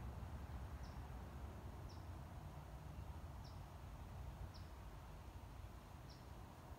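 A small bird gives five short, high chirps, about one a second, over a steady low background hum.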